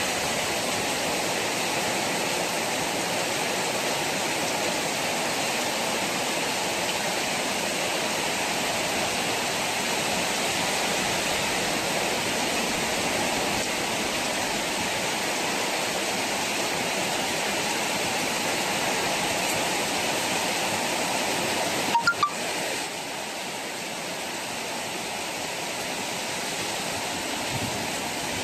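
Heavy monsoon rain pouring down steadily, a dense even hiss of rain hitting the road and roofs. A few sharp knocks sound briefly about three-quarters of the way through.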